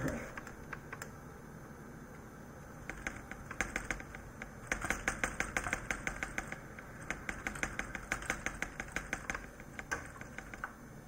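A knock, then a computer keyboard key tapped rapidly and over and over, about five or six clicks a second in bursts for several seconds. This is typical of tapping the setup key during boot to get into the BIOS.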